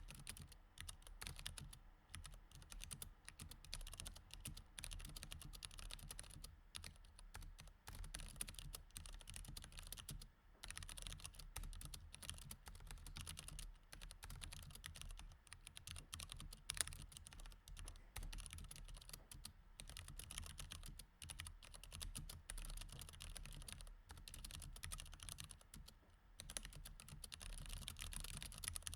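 Mechanical keyboard with Cherry MX Red switches being typed on continuously: a dense, irregular stream of key clicks with a few short pauses, and one louder keystroke partway through.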